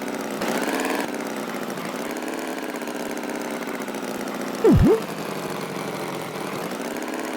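Cartoon tractor engine idling steadily. About two-thirds of the way in, a short tone swoops sharply down and back up.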